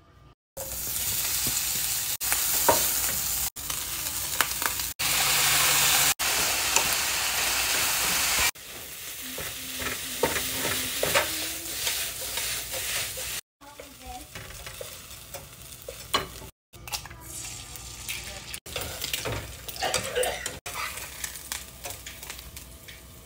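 Food sizzling in hot oil in a nonstick frying pan, stopping and restarting abruptly several times. It is loudest in the first several seconds, then quieter, with the scrape and tap of a wooden spatula stirring and tossing fried rice.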